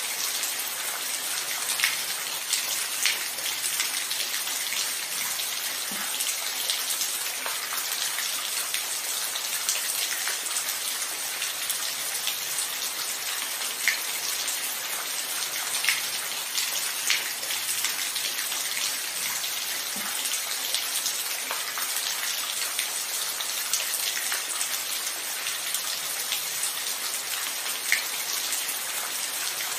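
Steady rain falling, an even hiss with sharp ticks of single drops landing close by every second or two. No thunder.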